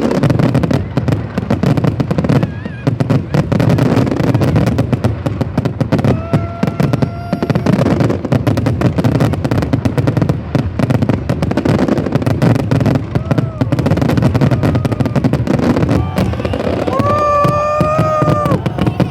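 Fireworks going off in a dense, continuous barrage of rapid bangs and crackles, with people's voices mixed in. A held, pitched tone cuts through briefly about six seconds in, and again louder near the end.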